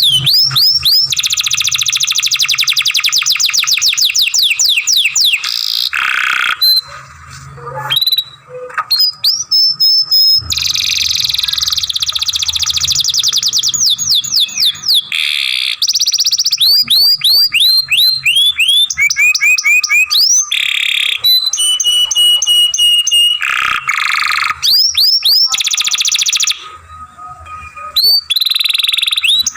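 Young domestic canary singing a long song: runs of rapid, repeated rising whistled notes and fast trills, each phrase giving way to a new one every second or two, with two short pauses.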